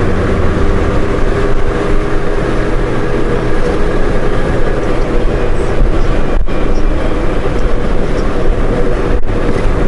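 Honda Gold Wing motorcycle running and pulling away, a loud steady rumble with wind and road noise on the microphone. The sound cuts out briefly twice in the second half.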